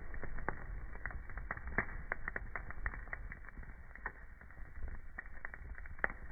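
Wood fire crackling in a fireplace: irregular sharp pops and snaps several times a second over a low steady rumble, with a louder pop about six seconds in.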